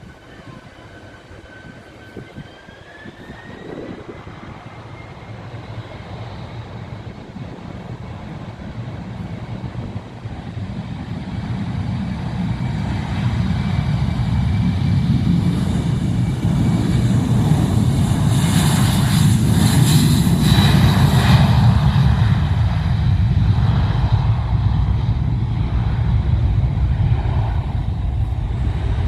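Jet aircraft engines, a whine that rises in pitch about three seconds in, then a building rumble that grows steadily louder, peaks around twenty seconds in and stays loud.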